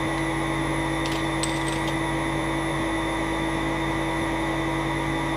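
A steady mechanical hum holding one constant pitch, with a few faint light ticks between about one and two seconds in.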